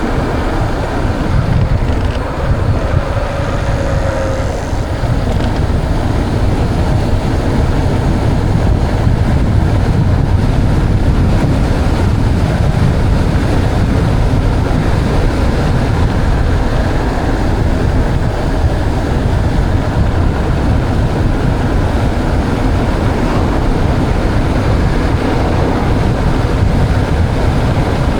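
Steady, loud wind buffeting on the microphone with tyre noise from a mountain bike rolling along the trail, heaviest in the low pitches.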